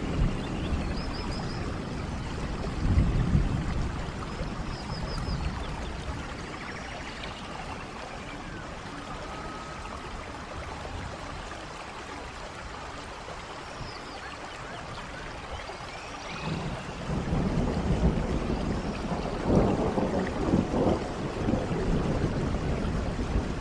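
Steady rain with rolling thunder: low rumbles in the first few seconds, a quieter stretch of rain in the middle, then the rumbling builds again for the last several seconds.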